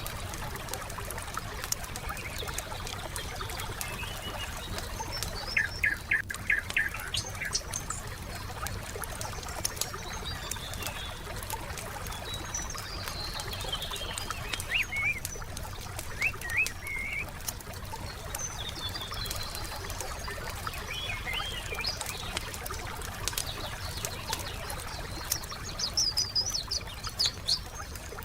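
Wood fire crackling with a steady patter of small pops. Birds sing and chirp over it at intervals: a quick run of chirps about six seconds in, more calls midway, and a rapid trill near the end.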